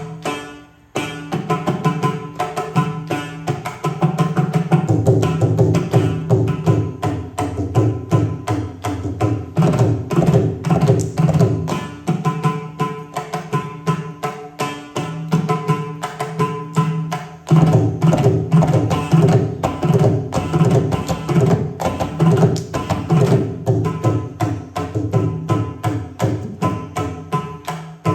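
Indian classical hand drums playing a fast Carnatic rhythm, dense rapid strokes over a deep pitched drum tone, with a steady melodic drone behind. A brief break about a second in, then the playing runs on without pause.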